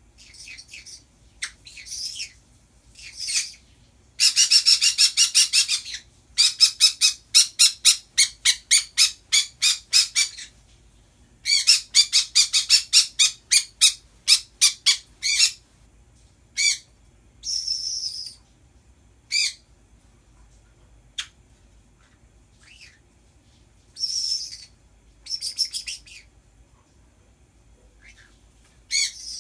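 Pet birds screeching and chirping: three long runs of sharp, rapid calls at about three a second in the first half, then scattered single chirps and squawks.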